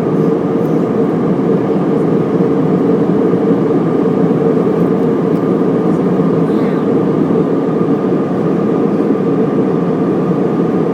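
Cabin noise of an airliner in flight: a steady, unchanging rush of engine and airflow noise heard from inside the cabin.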